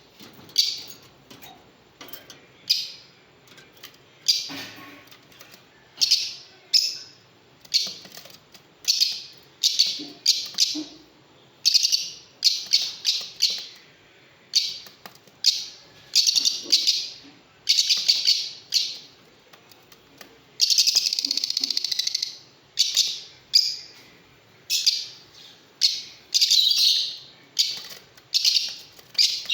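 Lovebirds calling: short, shrill chirps repeated about once or twice a second, with one longer call about two-thirds of the way through.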